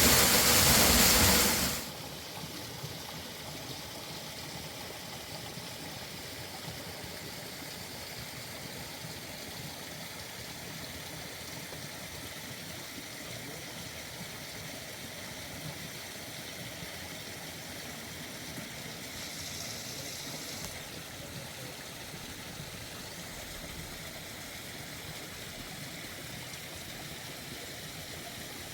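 Steady rush of flowing stream water. It is much louder for the first two seconds, then drops suddenly to a lower, even level.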